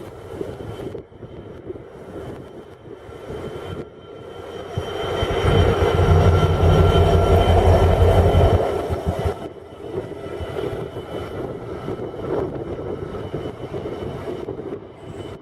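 A train passing by, its sound building to a peak between about five and nine seconds in, with a heavy low rumble, then fading away.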